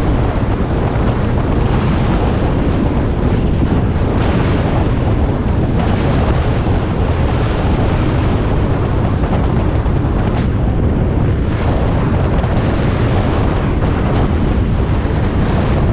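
Steady, loud wind rush buffeting the microphone on a motorcycle at highway speed, over the low drone of a Harley-Davidson Iron 1200's air-cooled V-twin engine.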